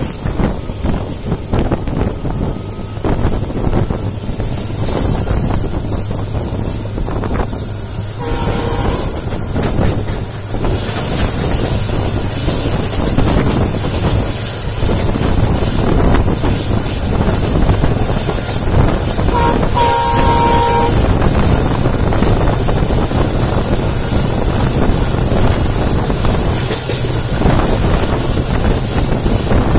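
Rushing wind and wheel-on-rail noise from an open doorway of a moving train while the coaches of another train pass close by on the adjacent track. Two short train horn blasts sound, about 8 and 20 seconds in.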